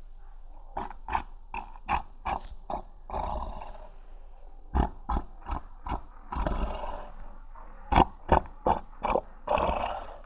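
Short, sharp grunts in runs of five or six, about three a second, each run followed by a long rasping breath; the pattern repeats three times.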